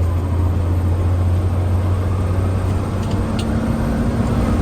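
Fire engine driving, its engine and road noise a steady low drone inside the cab.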